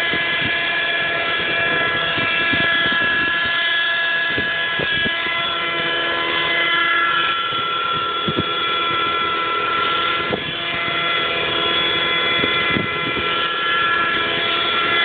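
Thunder Tiger Raptor 30 radio-controlled helicopter's two-stroke glow engine and rotor running steadily in flight, a high whine whose pitch wavers slightly. Short gusts of wind thump on the microphone.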